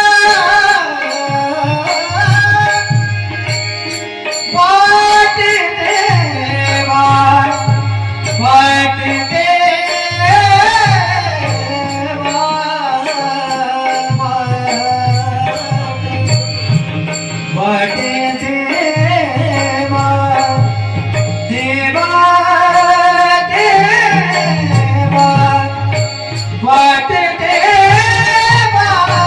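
Marathi devotional bhajan music: tabla playing a steady rhythm under a melody line that bends and glides.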